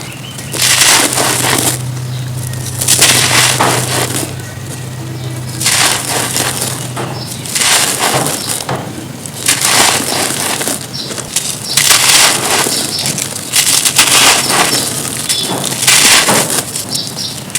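Dry, dusty chunks of cement being crushed and crumbled, in a series of crisp crunching bouts with short pauses between them. A faint low hum runs under the first half.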